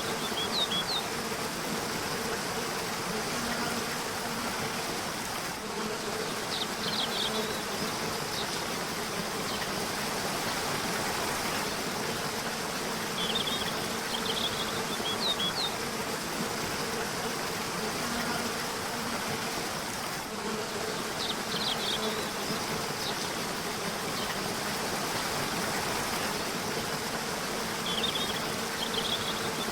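Steady rushing of a river or waterfall, with a songbird's short groups of high chirps recurring about every seven seconds. A faint low buzzing hum wavers underneath.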